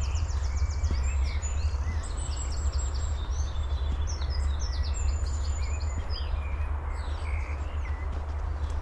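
Several small forest birds calling, overlapping quick high chirps and rattling trills that thin out near the end. Under them runs a steady low rumble.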